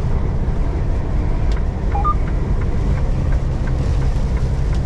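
Semi truck driving at highway speed, heard from inside the cab: a steady low drone of engine and road, with wind and rain on the cab and scattered faint ticks.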